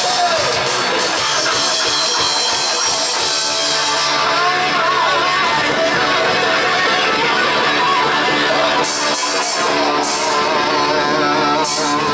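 Rock band playing live, an instrumental passage led by guitar, with wavering, bending guitar notes from about a third of the way in.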